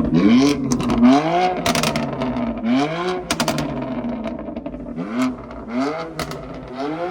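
A car engine being revved in short blips, about five times, each rising in pitch and dropping back, with several short sharp cracks between the revs.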